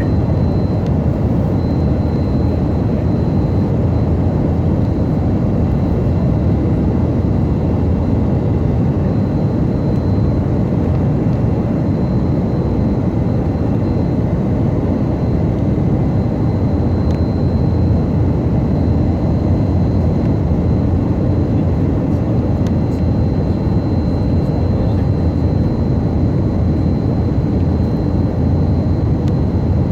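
Tupolev Tu-134AK in level flight, heard from inside the aircraft: a loud, steady rush of airflow and its rear-mounted Soloviev D-30 turbofans, heaviest in the low end, with a faint steady high whine over it.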